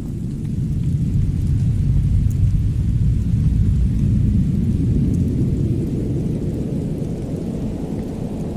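Winter storm and fireplace ambience: a deep, steady rumble that swells over a few seconds and then eases, with a few faint crackles over it.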